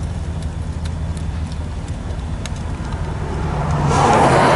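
Freight train rolling slowly past: a steady low engine drone with a few faint clicks, and a louder rushing noise that swells up near the end.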